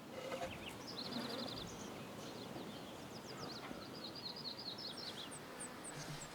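Several small birds chirping and trilling, including quick rattling trills and short high chirps near the end, over a steady rustling noise.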